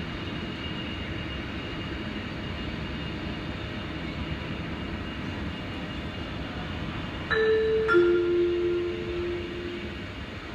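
Airport PA chime: two descending bell-like notes about seven seconds in, the signal that a boarding announcement is about to play. Under it runs a steady background rumble of terminal noise.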